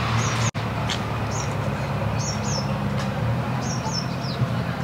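Small birds chirping in short, high, down-slurred notes, in little groups several times, over a steady low rumble of road traffic. The sound drops out for an instant about half a second in.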